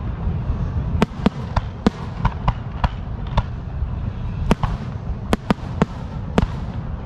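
Fireworks going off: about a dozen sharp bangs and pops at irregular intervals over a steady low rumble.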